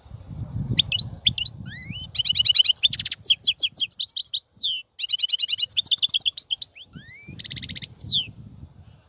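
European goldfinch singing: rapid twittering trills mixed with quick sliding whistled notes, in three bursts of song. A faint low rumble runs underneath near the start and the end.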